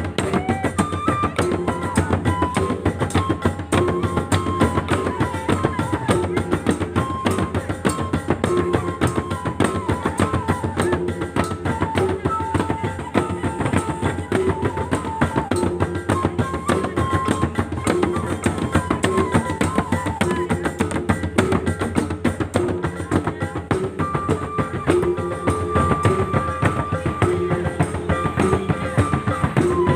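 Mandailing gordang sambilan ensemble playing: a dense, fast, unbroken stream of drum strokes with a held melody line stepping over it.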